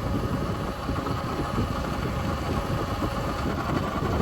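Wind rumbling on the microphone while riding an Arctic Leopard XF electric pit bike. Under it is a steady whine from the bike's motor and chain drive.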